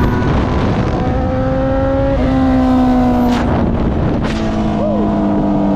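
Honda 919's inline-four engine running under load while riding, with wind rush. The note steps down twice near the middle, at what sound like upshifts.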